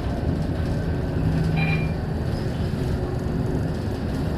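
Scania K230UB city bus running, a steady low engine and road noise, with a brief high-pitched chirp a little over a second and a half in.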